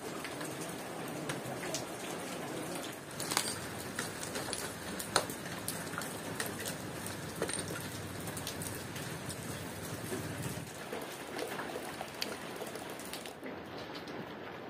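Rain falling on the leaves of orange trees, a steady hiss dotted with many small drips and taps.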